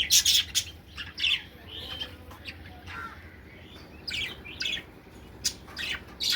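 Budgerigars chirping in a flurry of short, irregular calls, busiest in the first second and again near the end.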